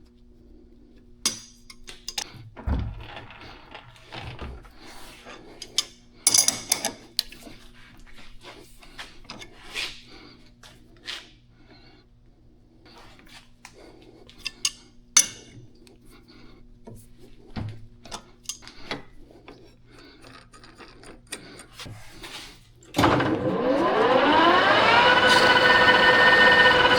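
Metal tools and parts clinking and knocking now and then, then near the end a metal lathe's motor starts and spins up, its whine rising in pitch for about two seconds before holding steady.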